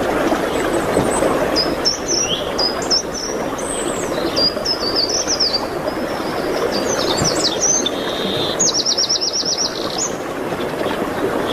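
Several songbirds singing in quick, high chirping phrases, with a fast trill of about eight notes a second near the end, over a steady rushing background noise.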